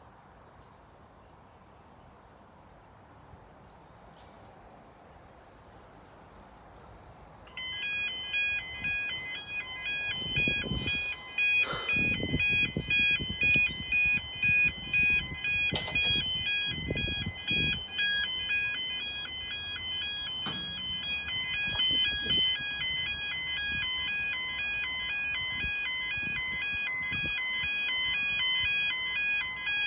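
Railway level crossing warning alarm starting suddenly about seven seconds in and ringing on steadily: a fast electronic two-tone ding-ding alternation, signalling an approaching train. Low rumbling gusts come and go in the middle, and the background rises toward the end.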